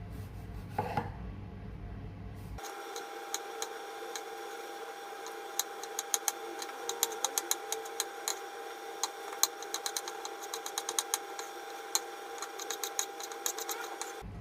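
A run of quick, irregular sharp taps and clicks over a steady faint hum, sparse at first and then dense for most of the time.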